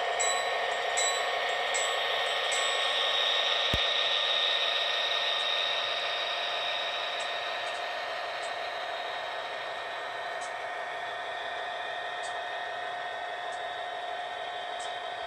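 Train rolling past on the rails: a steady rushing noise with a few faint ringing tones and scattered light ticks. It is loudest about four seconds in and then slowly fades as the train moves away.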